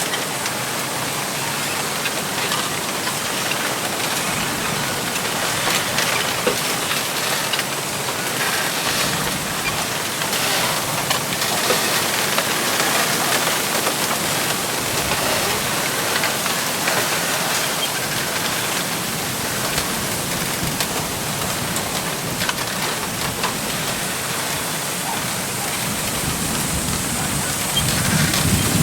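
Wind blowing through a bamboo grove: a steady rush of leaves with scattered small clicks of stems rubbing together. A gust with a low rumble builds near the end.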